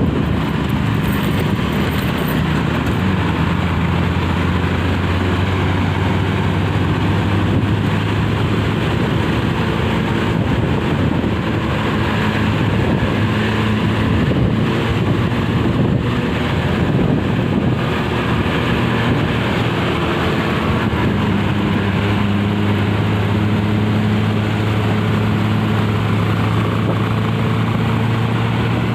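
Heavy road traffic: a steady low drone of bus and truck diesel engines under continuous road noise, shifting slowly in pitch.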